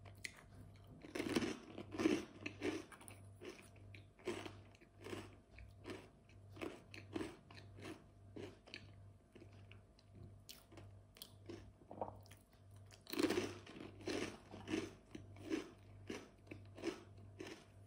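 A person biting and chewing a crunchy snack. Crunchy bites come about a second in and again around thirteen seconds in, each followed by regular chewing at roughly two chews a second. A faint steady low hum sits underneath.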